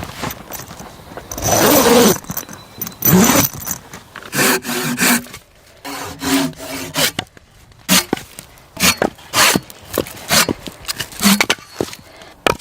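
A string of short, irregular scraping, rubbing and clinking noises, like gear being handled, with a longer sweeping scrape about two seconds in.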